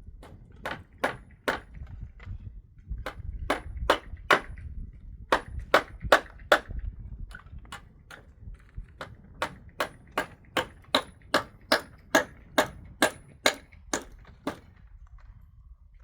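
A series of sharp, ringing knocks, about two a second, in runs of several with short pauses between them, stopping shortly before the end.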